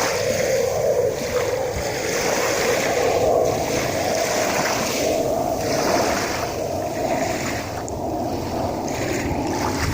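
Sea waves washing in, in surges every second or two, with wind on the microphone and a steady hum underneath.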